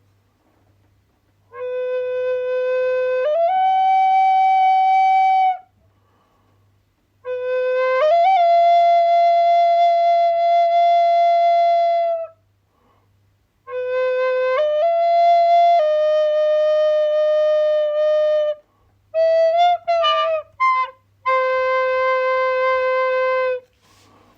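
Flute played in slow phrases of long held notes, each phrase stepping between two or three pitches with short pauses between. Near the end comes a quick run of short notes, then a final long low note.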